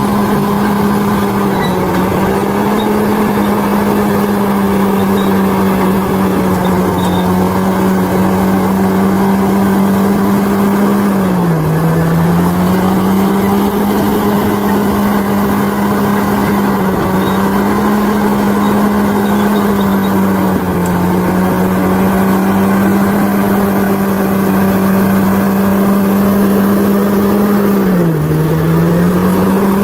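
Bulldozer's diesel engine running steadily, its pitch dropping briefly twice, about eleven seconds in and again near the end.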